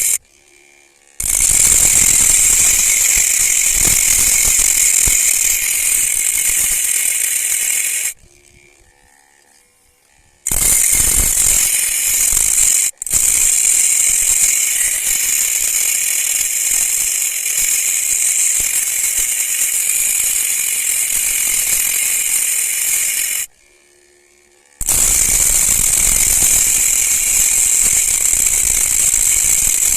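Homemade angle grinder driven by a 775 DC motor, running at high speed with a loud, high-pitched whine. The sound cuts out abruptly three times and comes back after a second or two.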